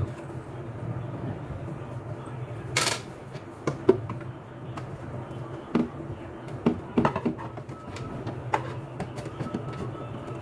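Irregular clicks and light knocks from handling parts during TV assembly, with a short rustling scrape about three seconds in, over a steady low hum.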